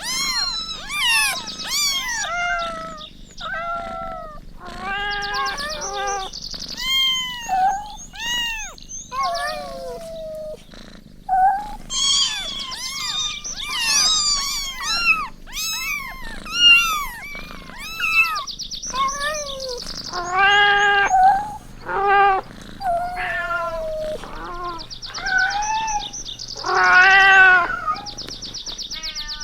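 Kittens meowing over and over: dozens of short, high-pitched meows that rise and fall, sometimes overlapping, with only brief gaps between them.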